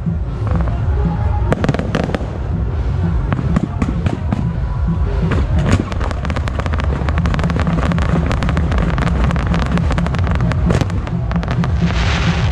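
Aerial fireworks shells bursting in quick succession: a dense run of sharp bangs and crackles over a continuous low rumble, with a spell of crackling hiss near the end.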